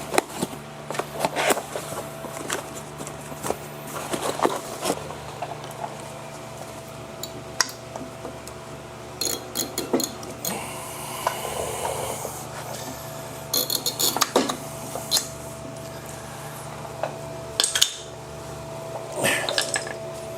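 Irregular metallic clinks, taps and scrapes as steel-backed brake pads and tools are handled, the old pads worked off the caliper. A steady faint hum runs underneath.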